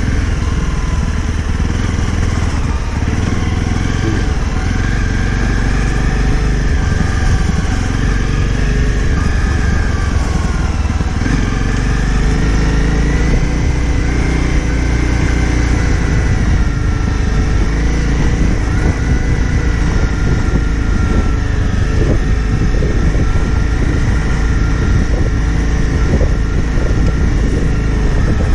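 Honda CRF250 Rally's single-cylinder engine running steadily under way, its pitch drifting gently up and down with the throttle.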